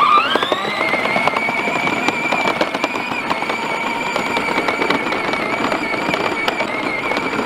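Electric motor of a battery-powered ride-on toy tractor whining: it rises in pitch as it pulls away, then holds a steady high whine, over constant crackling from the wheels rolling on the ground.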